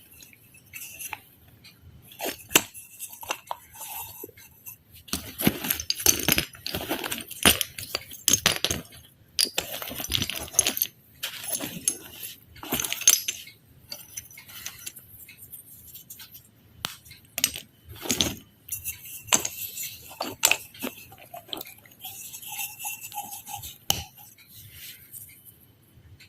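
Close-up handling sounds: irregular sharp taps and clicks mixed with short scratchy rustles.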